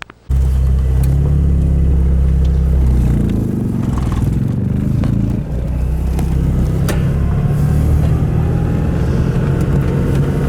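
Motor vehicle engine running while driving: a loud, steady low rumble that cuts in suddenly just after the start, with a few light clicks and rattles.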